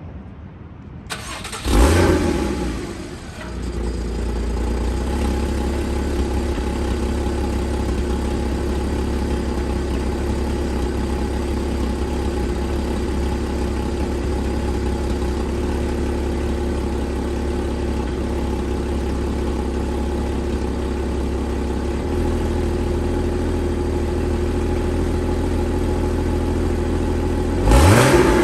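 Porsche 981 Cayman's 2.7-litre flat-six on its stock exhaust: a cold start, the engine catching with a loud rev flare about two seconds in, then settling into a steady idle. Near the end there is a sharp rev blip.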